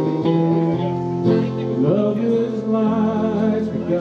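Live band playing a country ballad, with guitar and sustained notes that glide in pitch about halfway through.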